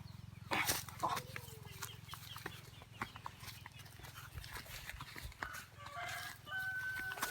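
Faint animal calls and scattered clicks over a low, steady hum.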